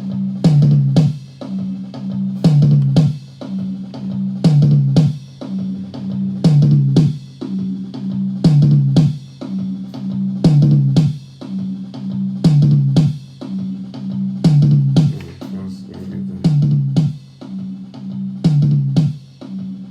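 Multitrack band recording played back through a mixing session: drum kit with kick and snare, bass guitar and guitar playing a groove whose bass figure repeats about every two seconds.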